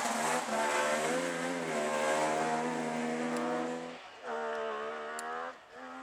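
A Wartburg 353 rally car's three-cylinder two-stroke engine running hard at high, steady revs, with a brief dip in pitch. The note drops away about four seconds in, and a second, shorter burst of hard-running engine follows.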